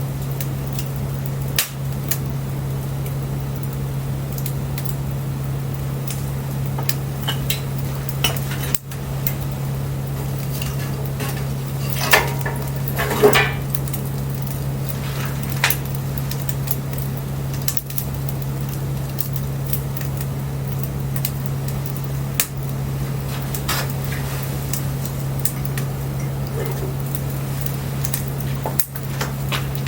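Wood fire crackling with scattered sharp pops over a steady low hum. Near the middle comes a brief cluster of ringing clinks.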